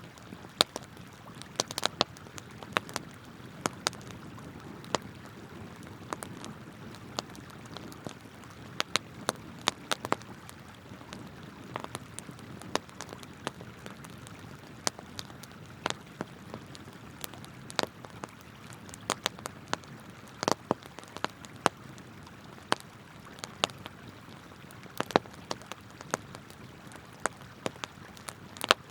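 Wood campfire crackling, with sharp irregular pops several times a second, over the steady rush of a flowing river.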